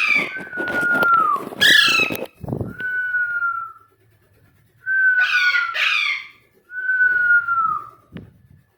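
A pet parrot's harsh, downward-sliding squawks mixed with four long whistled notes, each held steady and then dipping at the end.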